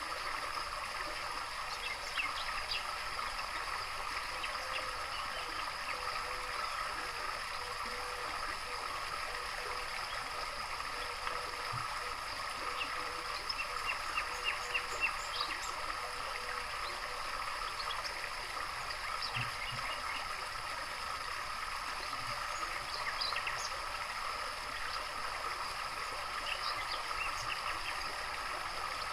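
Steady trickling of running water, with scattered short chirps from small birds and a quick run of chirps about halfway through.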